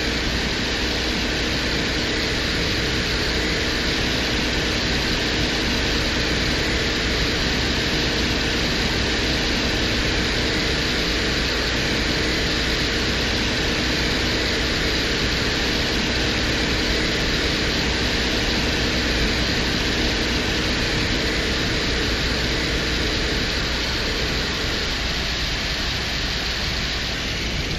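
Steady static-like hiss of the Venera 14 lander's surface audio recording from Venus, with a faint low hum underneath that fades out about 24 seconds in.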